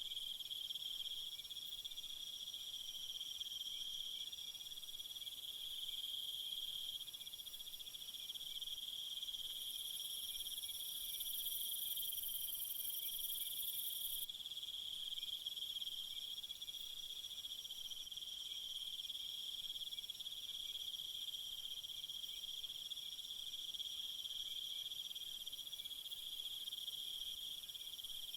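A steady, shrill, unbroken insect chorus. About ten seconds in, a higher hissing layer joins it and cuts off suddenly some four seconds later.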